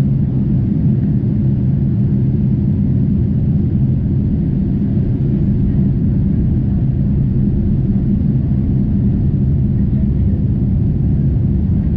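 Steady low drone of a Boeing 747-8 heard from inside the passenger cabin: engine and airflow noise with a few steady low hums, constant in level throughout.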